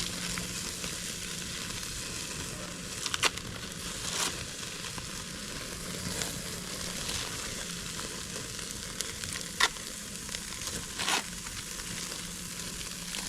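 Cheeseburger patties sizzling steadily over a flaring-up flame, with four brief sharp clicks or knocks spread through.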